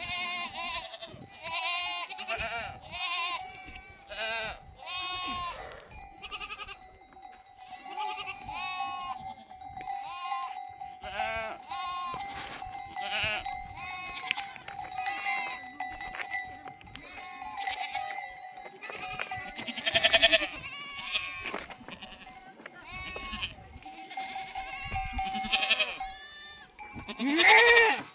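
A herd of sheep and goats bleating over and over, many short calls overlapping, with a louder call near the end. A faint steady ringing tone runs underneath for most of it.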